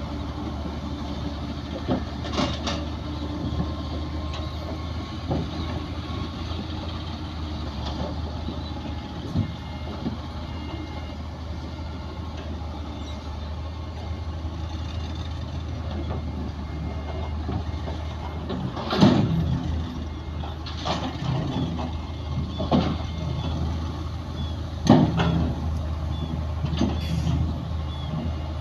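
Heavy diesel construction machinery running steadily with a low engine drone. Sharp clanks and knocks come now and then, several louder ones in the second half.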